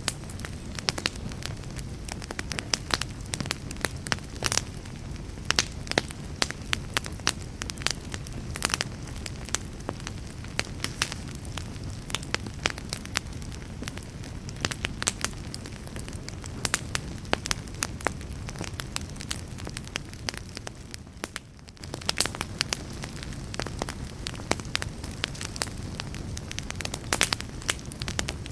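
Campfire crackling and popping: many sharp, irregular pops over the steady low rumble of the flames. The sound dips briefly about three-quarters of the way through, then picks up again.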